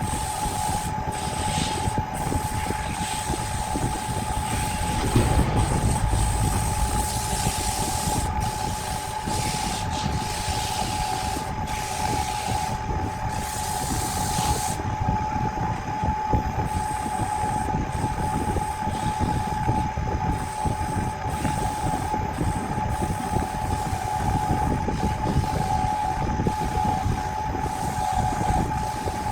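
Power tool running steadily with a constant motor whine over a noisy rumble of wood being worked, swelling louder about five seconds in.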